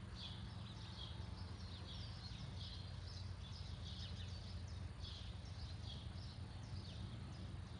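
Small birds chirping, a steady string of short high chirps several a second, over a low steady hum.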